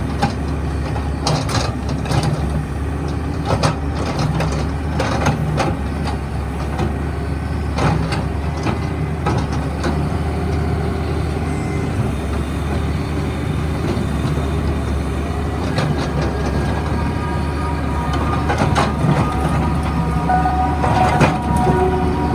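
Diesel engine of a Doosan DX140W wheeled excavator running steadily under load, with repeated scraping and clattering of crushed stone as the bucket spreads and levels it.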